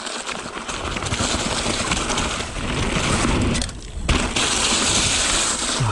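Canyon Spectral 7 mountain bike riding over a dirt trail strewn with leaves: steady tyre and trail noise with knocks and rattles from the bike, easing briefly about four seconds in, then picking up again with more hiss.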